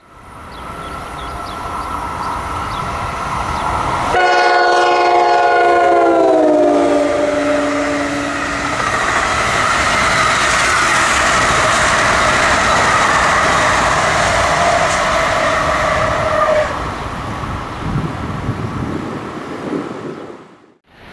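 A train passes at speed over the rails, its rushing wheel noise building and then fading away near the end. About four seconds in its horn sounds a chord that slides down in pitch as the train goes by.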